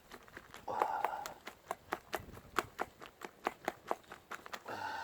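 Utensil clicking repeatedly against a bowl as raw eggs and chopped green onion are beaten together, in sharp irregular taps about three or four a second. A short vocal sound comes about a second in.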